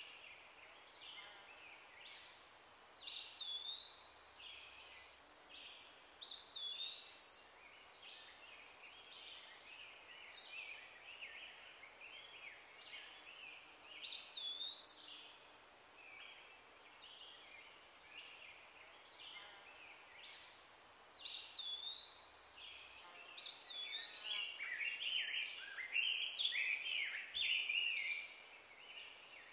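Birds singing: bursts of whistled notes that glide up and hook down, returning every few seconds, growing busier and louder near the end, over a faint steady outdoor hiss.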